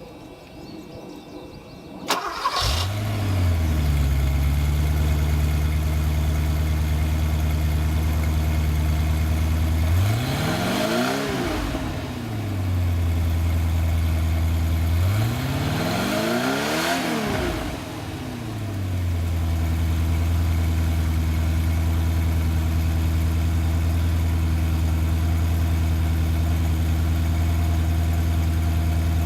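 1979 Porsche 928's 4.5-litre V8 starting: a brief crank about two seconds in, then it catches and settles into a steady idle at the exhaust. Partway through it is revved twice, the pitch rising and falling each time, then it returns to idle.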